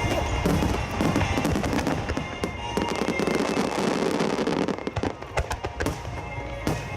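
Large star mine fireworks display: a rapid, dense run of shell bursts and crackling, with music playing underneath.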